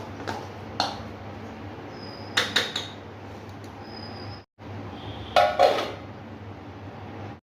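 Kitchen utensils clinking and knocking against dishes: a few light knocks, then a quick cluster of clinks about two and a half seconds in and another, louder and ringing, about five and a half seconds in.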